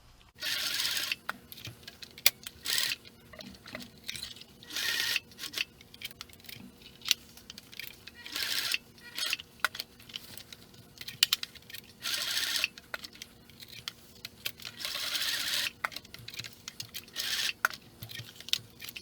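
Sewing machine stitching in short bursts of half a second to a second, about a dozen runs, with clicks between them as the work is moved.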